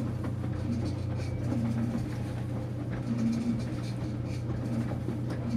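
Enxuta Luxo Soft washing machine running with a load of towels: a steady low motor hum, with a faint higher tone coming and going about once a second and scattered light noises over it.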